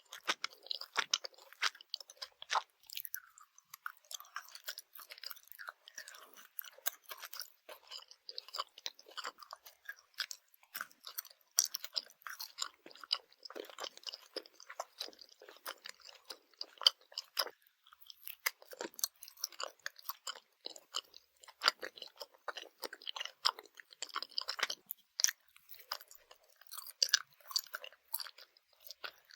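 Close-miked chewing and biting of Swedish-style gummy candy: a continuous, irregular run of short wet mouth clicks and sticky chewing noises.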